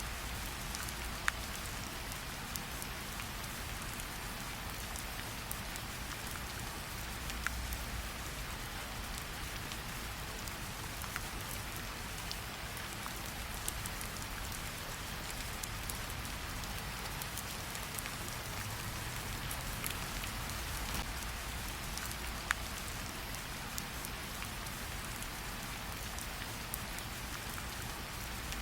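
Steady rain, with a few sharp isolated pops from a crackling campfire scattered through it.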